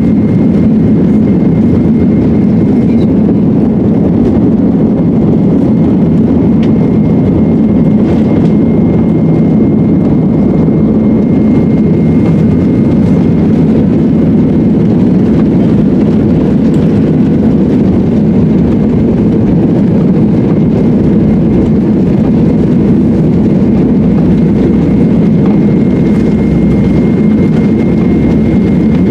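Steady loud vehicle rumble with a faint, steady high whine over it, unchanging throughout.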